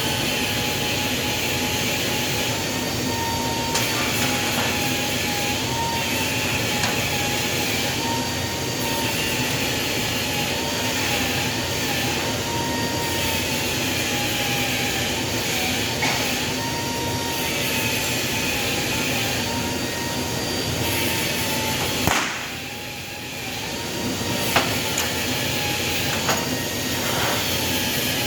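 A machine running steadily with a wavering whine. About two-thirds of the way through, a sharp knock is followed by the noise briefly dropping, and then a few sharp clicks.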